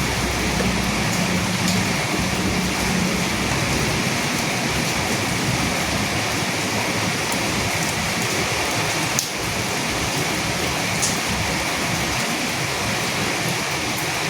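Steady, heavy rain falling on a surface, with a low thunder rumble dying away in the first few seconds. A single sharp click about nine seconds in.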